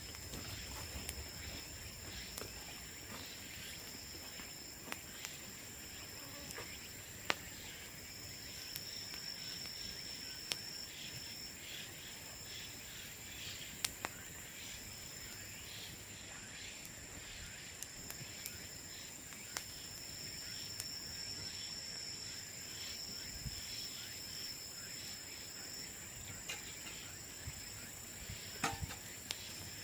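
Insects trilling steadily at two high pitches, with scattered small crackles and pops from a bamboo bonfire; the crackles bunch together near the end.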